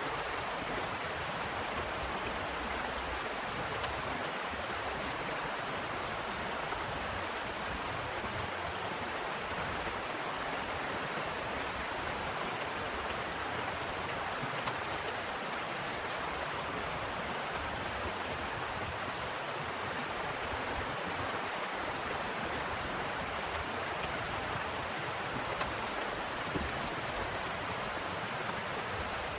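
Heavy rain falling steadily, an even hiss with an occasional faint tick.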